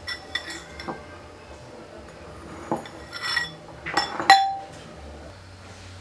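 Dishes and utensils clinking and knocking together: a few light clinks near the start, more in the middle, and the loudest about four seconds in with a short ring.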